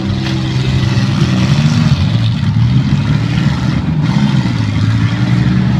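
Engines of small front-wheel-drive demolition derby cars running and revving loudly, their pitch wavering up and down.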